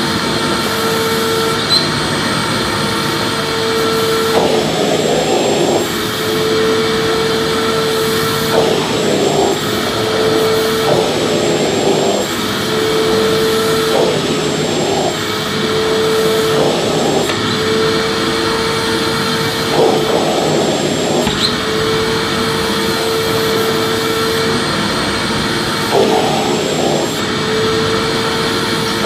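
Vacuum cleaner running continuously, its steady hum breaking every two to three seconds into a rougher rush of air before settling again.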